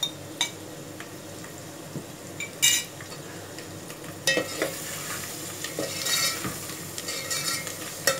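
Chicken masala frying in a steel pot while a steel spoon stirs and scrapes through it. There is a sharp metal clink about two and a half seconds in, and the scraping and sizzling grow louder from about four seconds.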